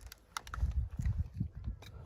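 A run of dull, low thumps with scattered light clicks and crackles.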